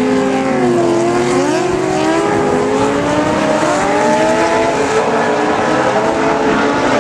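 Several historic muscle race cars running at speed, their engines overlapping as the pitches rise and fall with the revs.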